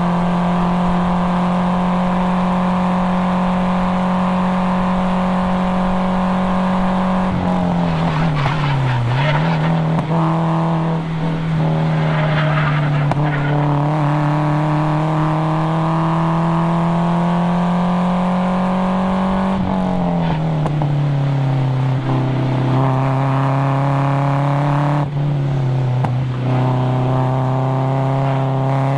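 Nissan 240SX's four-cylinder KA24DE engine pulling hard on track, held at steady revs, then dropping sharply about seven seconds in and again near twenty seconds, each time climbing slowly back up. Tyres squeal in between, around the first drop.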